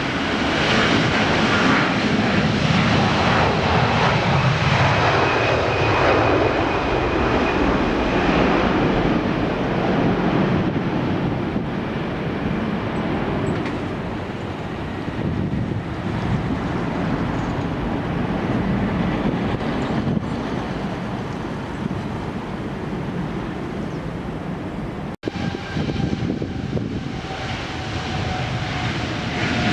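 Jet airliner engines running in a steady roar, with a low tone falling in pitch over the first several seconds. The sound cuts out for an instant about 25 seconds in.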